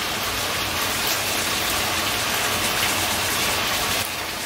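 Steady sizzling hiss of food cooking on the stove, easing slightly about four seconds in.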